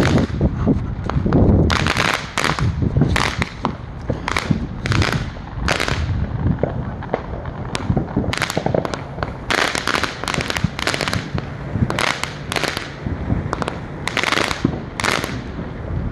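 Fireworks going off in a string of sharp crackling bursts, roughly one every second, over a steady background hiss.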